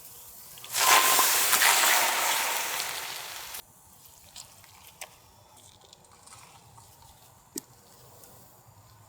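Loud sizzling as food or liquid hits the hot cauldron-lid griddle. It starts suddenly about a second in, fades, and cuts off abruptly after about three seconds, leaving a few faint clicks.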